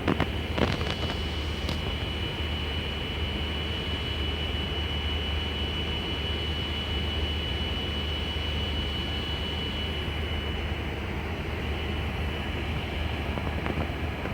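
Steady hum and rush of air inside a Boeing 747-400 cockpit, with a thin high whine that fades out about eleven seconds in. A few light clicks come near the start.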